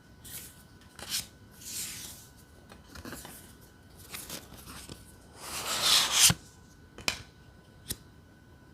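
Tarot cards being handled and shuffled: a series of short rustling swishes and light taps, the longest and loudest swish about six seconds in, then two sharp clicks near the end.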